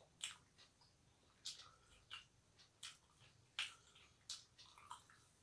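Faint eating sounds: soft wet clicks and smacks of people chewing, about one every second.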